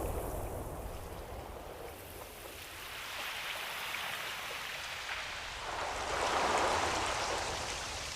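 Ocean surf washing ashore: a hiss of water that dips, then swells as a wave comes in about six seconds in and eases off again.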